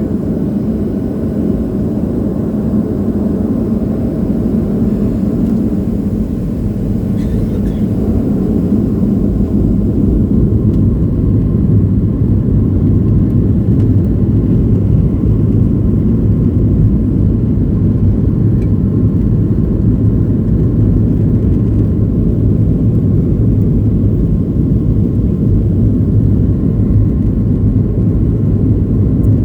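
Boeing 737-800 airliner with CFM56 jet engines running, a steady low rumble that grows louder about ten seconds in.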